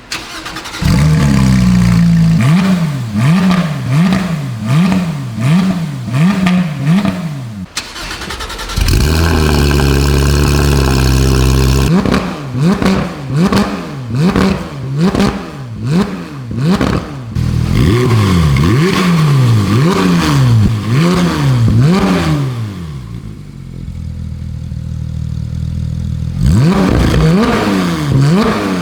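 Porsche 991.1 GT3 RS's 4.0-litre naturally aspirated flat-six, breathing through an aftermarket exhaust, being blipped over and over from idle, the revs rising and falling about once a second. About nine seconds in it is held at steady revs for a few seconds, and near the end it settles briefly to idle before more blips.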